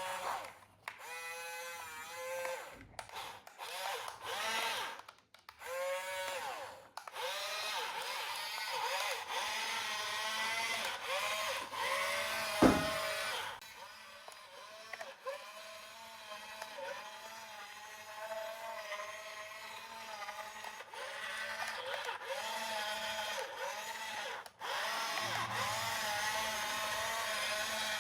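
Small electric motor and gears of a toy running with a whine that rises and falls in pitch over and over. It stops and restarts several times in the first seven seconds, and there is a single sharp knock about 13 seconds in.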